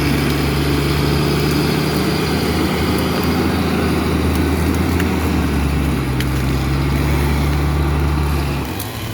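John Deere 848H skidder's diesel engine running steadily under load while it pushes debris off the trail, easing off near the end.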